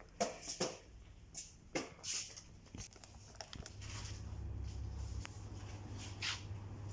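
Handling noises: scattered rustling and crinkling with short clicks and knocks. A low steady hum comes in about halfway through.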